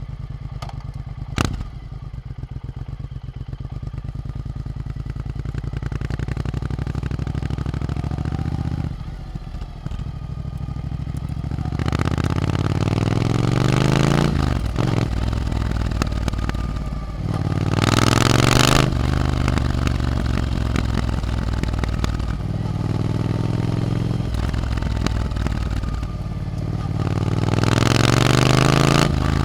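Triumph Scrambler 900's parallel-twin engine through an Arrow exhaust. It runs low and steady at first, with a sharp click about a second in. About halfway through it pulls away and accelerates, the pitch climbing and dropping back at each gear change, with a loud rush of noise at the top of the pulls near the middle and the end.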